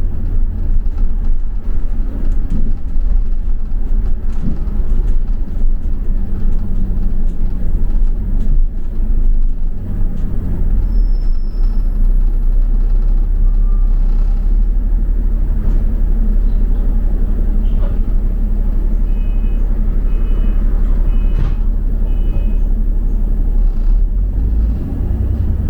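Double-decker bus running, heard from on board as a steady low engine and road rumble. Past the middle come four short two-tone beeps in a row.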